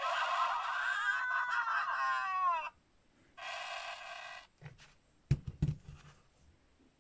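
LEGO Mario interactive figure's small built-in speaker playing electronic sound effects: a warbling call that ends in quick falling glides, then a shorter buzzy tone. A few sharp knocks of plastic follow near the end.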